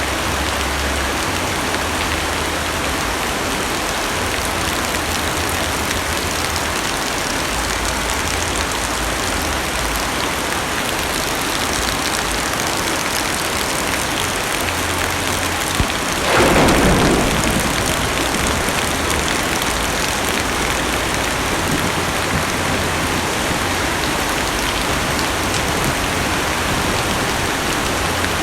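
Heavy rain falling steadily on a car's roof and windows, heard from inside the cabin. About sixteen seconds in, a sudden clap of thunder rises above the rain and fades over a couple of seconds.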